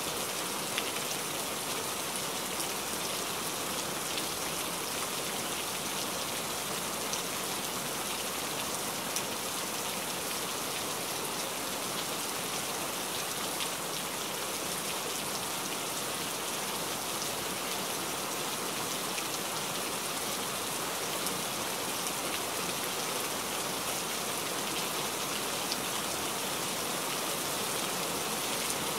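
Steady rain falling on dense forest foliage: an even hiss with scattered sharp drop taps.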